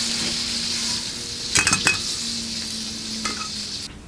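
Chicken pieces sizzling in a hot wok as they are stir-fried, with a couple of sharp clinks of the metal wok spatula against the pan about one and a half seconds in. The sizzle drops away near the end.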